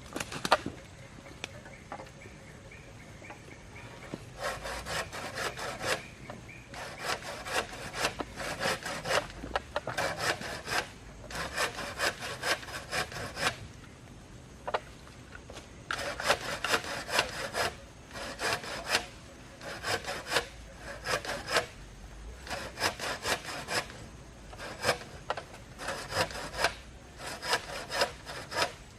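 Hand saw cutting through wood in runs of quick back-and-forth strokes, with short pauses between runs.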